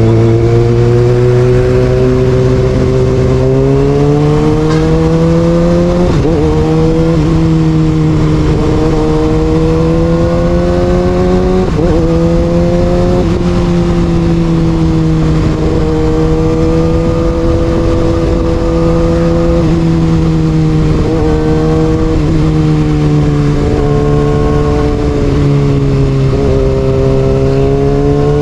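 Kawasaki Ninja ZX6R inline-four with an Austin Racing aftermarket exhaust, ridden under way. The engine note climbs a few seconds in, then holds fairly steady, broken briefly several times by small dips and rises in revs.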